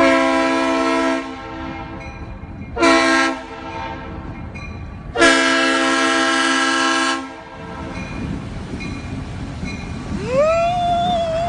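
Train horn sounding three blasts, each a chord of several tones: a long one, a short one, then a longer one of about two seconds. After that a low rumble, and near the end a single tone that slides up and holds.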